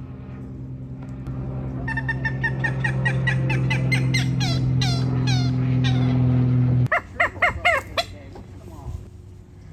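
A pond bird squawking in a rapid series of short falling calls, about three a second, during a territorial squabble, ending in a few louder squawks. A steady low motor hum runs underneath and cuts off suddenly about seven seconds in.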